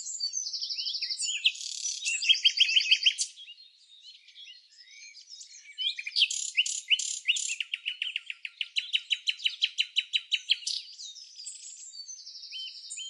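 Birds singing and chirping: fast trills and quick runs of repeated notes. A quieter patch comes about three seconds in, and a long run of rapid notes near the middle lasts about three seconds.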